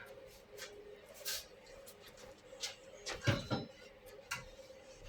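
Scattered light clicks and knocks of metal parts being handled and fitted, with a louder cluster of knocks about three seconds in, over a faint steady hum.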